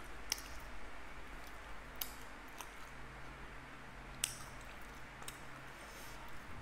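Close-up eating sounds of chewing crisp dry flatbread (sukha roti): a scattered handful of short, sharp crunches and clicks.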